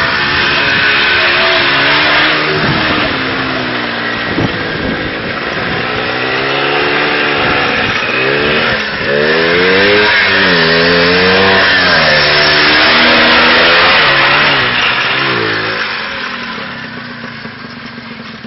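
IZh Planeta 5 trike's single-cylinder two-stroke engine revving under way, its pitch rising and falling repeatedly, then fading away over the last few seconds.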